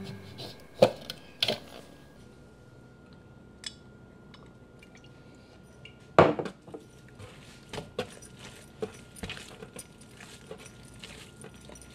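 Hands handling seitan dough on a wooden cutting board: a few light knocks and scrapes at first, one louder knock about six seconds in, then soft, irregular taps and slaps as the dough is kneaded. A faint steady high tone runs underneath.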